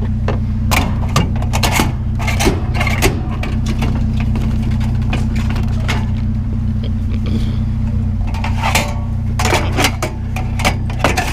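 Truck engine idling steadily while metal scrap clanks and rattles in two bouts of knocks, one starting about a second in and another around nine seconds.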